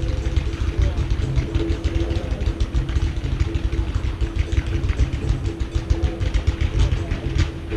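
Fireworks display: rapid, dense crackling and popping with low booming rumble throughout, over steady held notes of music.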